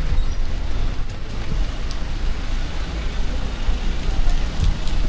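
Rainy city street: the steady hiss of rain mixed with a low rumble of traffic, with a few light ticks.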